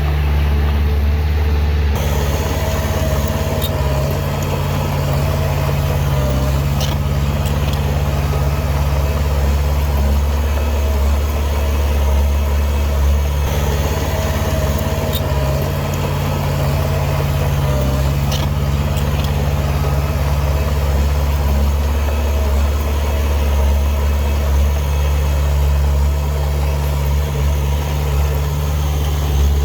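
Heavy diesel earthmoving machinery running steadily, its engine drone low and even.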